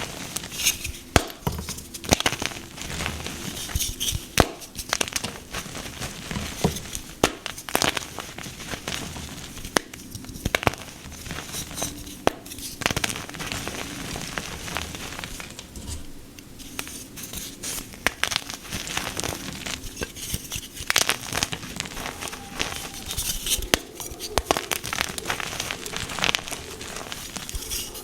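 Pink gym chalk being crunched and crumbled, a dense run of irregular dry crackles and sharp cracks with louder snaps scattered throughout.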